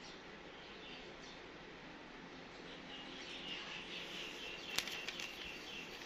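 Steady outdoor background with a small bird chirping in a quick run of high chirps over the second half, and one sharp click near the end.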